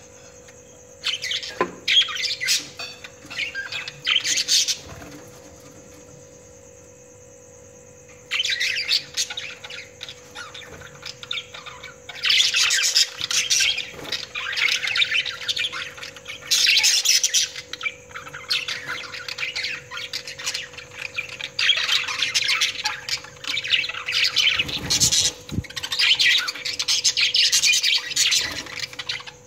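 Pet budgerigars chattering and squawking in short bursts. They fall quiet for a few seconds, then chatter almost without a break through the second half.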